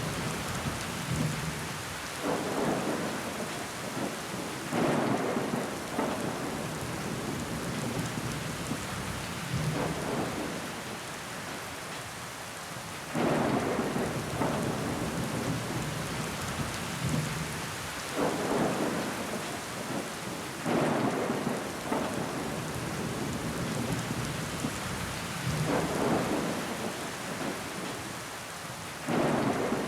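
Steady rain falling on window glass, with short louder swells of rain and running water every few seconds.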